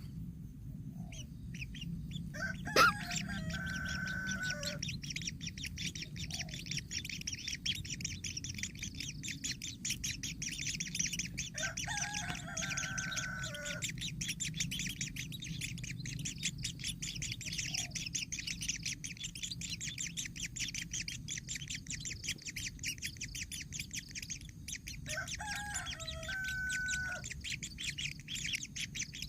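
Outdoor bird sounds: a dense, rapid high chatter running throughout, with three longer calls of about two seconds each, spaced roughly ten seconds apart.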